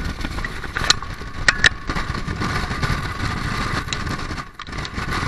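Strong wind buffeting the microphone: a loud, uneven rumble, with a few sharp clicks between one and two seconds in.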